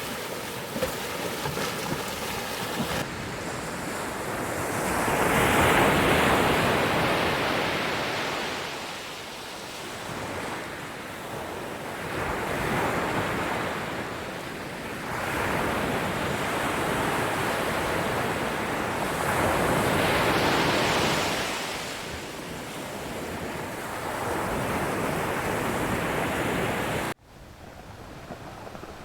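Ocean waves breaking and washing in, the surf swelling and easing every few seconds. About two seconds before the end it cuts off suddenly to a quieter, steady hiss.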